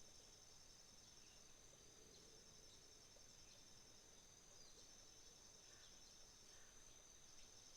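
Faint chorus of autumn insects trilling steadily on one high pitch, with a few brief, faint bird chirps.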